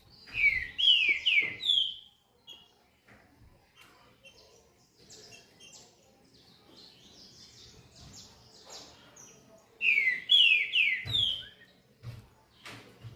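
Double-collared seedeater (coleiro) singing. It gives a quick phrase of four sharply falling whistled notes, then softer twittering, then the same four-note phrase again about ten seconds in. A few short knocks come near the end.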